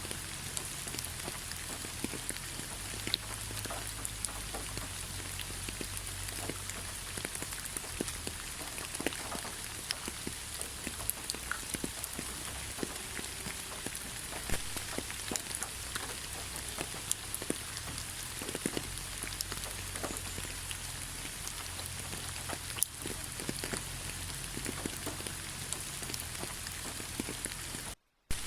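Steady rain falling on a forest road, a constant hiss with many separate drops pattering through it. The sound cuts out for a split second near the end.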